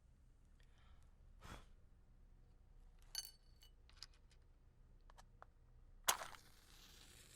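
A wooden match struck and flaring, a sudden scrape followed by about a second of hissing near the end. Earlier come a light ringing clink, like ceramic being tapped, and a few soft ticks.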